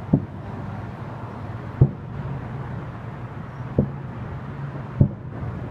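Distant fireworks going off: four dull booms spaced one to two seconds apart over a steady low background rumble.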